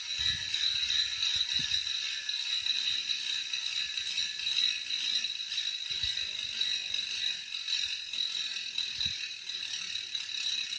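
NS Bikes Rotary rear hub freewheeling: a continuous high buzz from the freehub's engagement mechanism clicking in quick succession as the wheel coasts, with a few low thuds near the start and later on.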